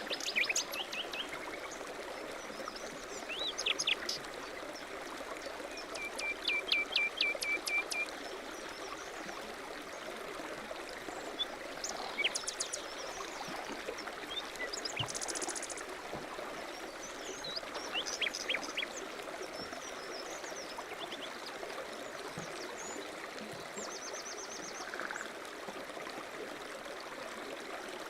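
Stream water running steadily, with songbirds chirping over it: a quick run of about seven chirps some six seconds in, and scattered short calls and trills later on.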